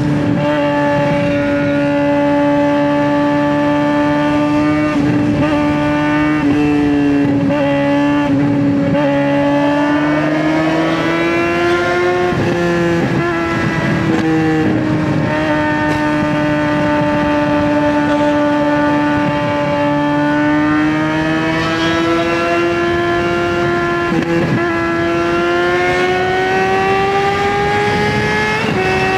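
2009 Suzuki GSX-R600's inline-four engine, straight-piped, running under way at a steady cruising note that slowly sags and rises in pitch. Several times, about 5, 10 to 13, 21 and 25 seconds in, the note briefly breaks and picks up again.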